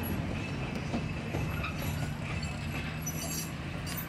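Narrow gauge passenger train hauled by a 1928 Plymouth gas locomotive rolling by at low speed: a steady low drone with light clicks of the wheels on the rails and a faint high squeal.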